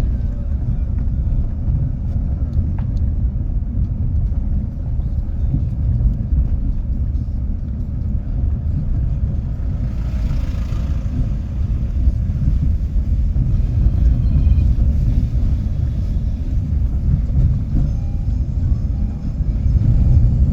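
Steady low rumble, with a brief hiss about ten seconds in.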